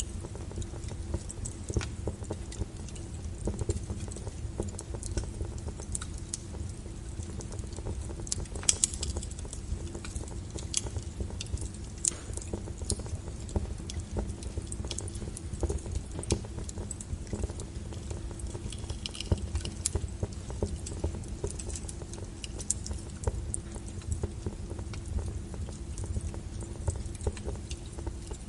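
Logs burning in a fireplace, crackling and popping irregularly over a low, steady rumble of the flames.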